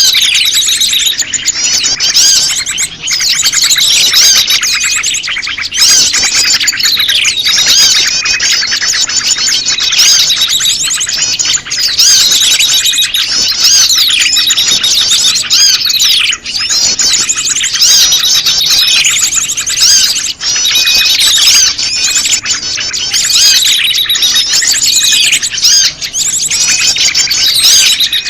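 Bird-lure recording of prenjak lumut calls layered over a dense, noisy chorus of small songbirds chirping, with quick falling whistled notes repeating every second or two.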